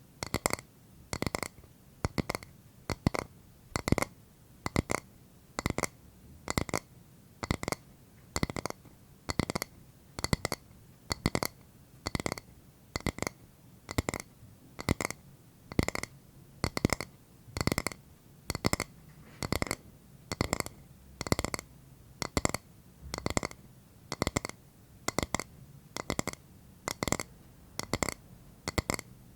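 ASMR tapping on a hard object, in short clusters of quick taps repeating at an even pace of nearly two a second, each cluster with a brief bright ring.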